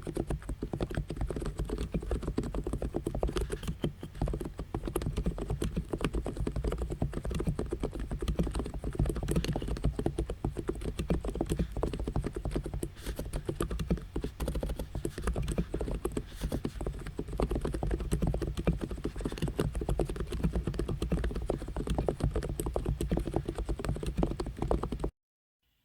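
Fast continuous typing on an Abko K990 v3 capacitive (non-contact) keyboard: a dense run of keystroke clacks that stops abruptly near the end.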